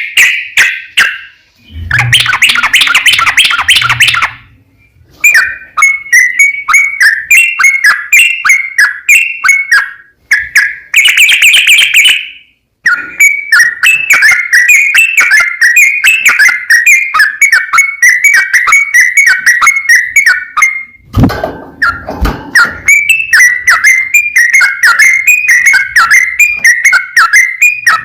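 Yellow-vented bulbul singing a long, fast run of bubbling, repeated notes with brief pauses: the long rolling "ropel" song used as a lure to set other bulbuls singing. Twice, once near the start and once about two-thirds through, a louder, rougher burst breaks in.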